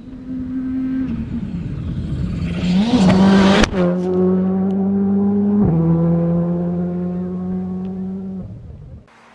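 Rally car passing at speed on a stage. The engine note climbs as it approaches, is loudest with a sharp crack and a sudden drop in pitch as it goes by about three and a half seconds in, then steps down in pitch again near six seconds and fades away.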